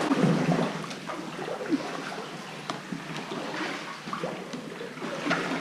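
Sea water lapping and gurgling around a kayak inside a rock sea cave, with scattered small splashes and drips.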